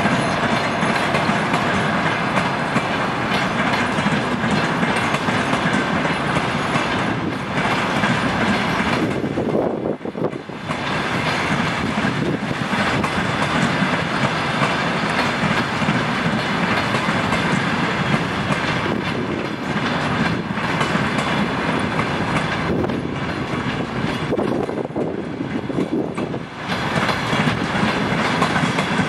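Passenger coaches rolling past close by: continuous steel-wheel-on-rail noise. The noise dips briefly twice.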